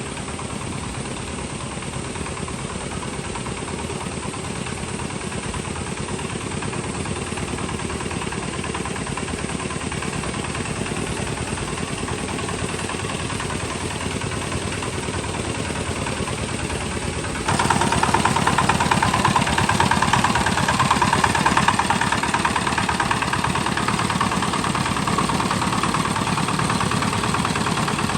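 Tractor engine running steadily; about seventeen seconds in the sound abruptly becomes louder and higher.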